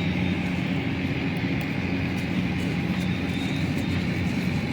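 Steady engine drone: a low, even hum that holds the same pitch throughout.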